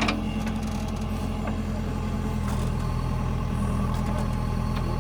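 Diesel engine of a JCB 3DX backhoe loader running steadily, with a few faint ticks over it.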